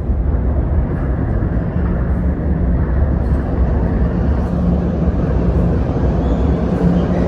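Toronto subway train on Line 1 running through the station, a loud steady rumble; a low steady hum joins about a second and a half in.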